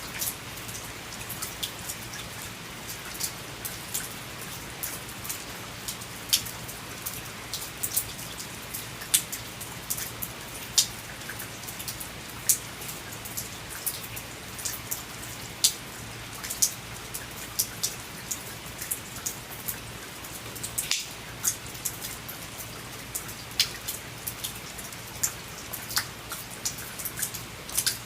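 Rain falling: a steady hiss of rain with frequent sharp drops striking a hard surface at irregular intervals, over a faint steady low hum.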